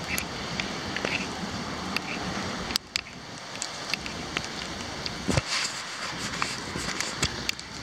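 Steady rain and wind hiss, with scattered sharp ticks of raindrops. The hiss dips suddenly a little under three seconds in, and there is a single dull thump about five seconds in.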